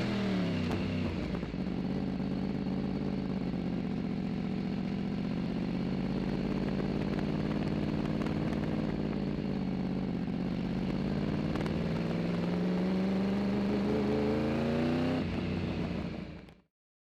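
Racing motorcycle engine running at low, fairly steady revs, its pitch dipping slightly and then rising a little before the sound fades out near the end.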